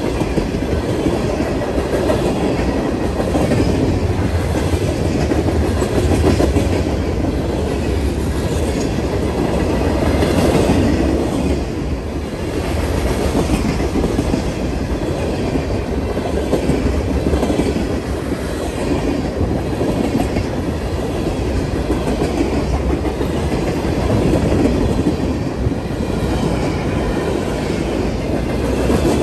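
Freight cars of a passing freight train rolling by at close range: a steady rumble of steel wheels on rail, with irregular clicking as the wheels cross rail joints.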